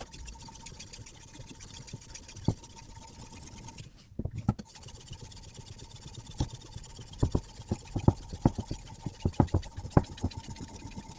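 Knife being worked on a guided sharpening system: a faint steady rasp runs under a series of sharp knocks and clicks, one a couple of seconds in and a quick run of them in the second half.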